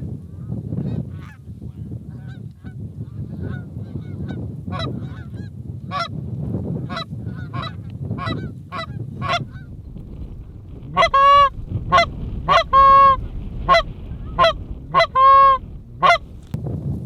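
Geese honking: faint, scattered calls through the first ten seconds, then a run of about eight loud, close honks a little after the midpoint. A low wind rumble runs underneath.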